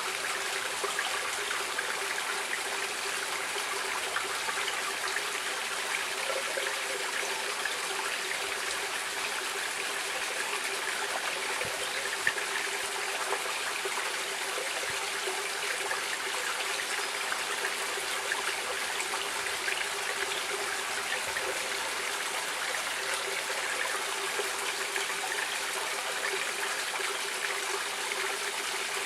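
Running water of a stream, a steady unbroken rush and trickle.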